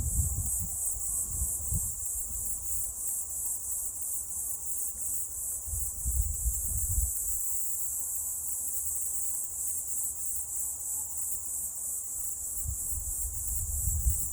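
A chorus of autumn insects chirping in a steady high-pitched pulsing trill, with gusts of mountain wind rumbling on the microphone near the start, about six seconds in, and again near the end.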